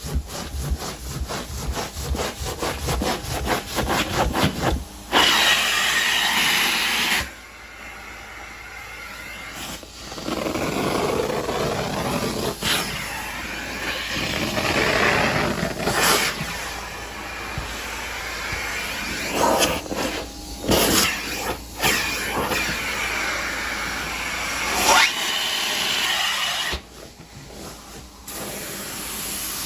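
Carpet-cleaning work: quick rhythmic scrubbing strokes, about five a second, for the first five seconds, then a cleaning wand's hissing spray and suction that stop and start several times.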